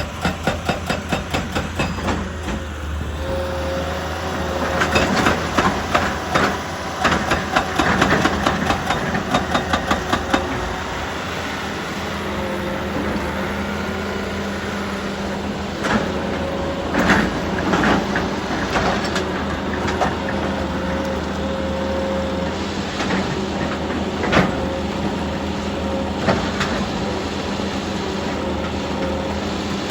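Heavy diesel machinery running with a steady low hum, with runs of rapid, regular rattling clatter near the start and again from about 5 to 10 seconds in, and several sharp knocks of rock and metal later on, typical of an excavator working rock.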